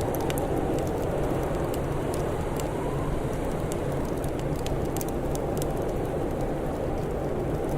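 Crackling fire: scattered sharp pops and snaps over a steady low rushing background.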